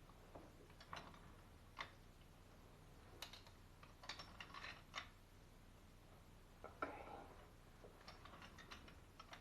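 Faint, scattered clicks and small knocks of plumbing fittings and tools being handled, some in brief clusters, the loudest about seven seconds in.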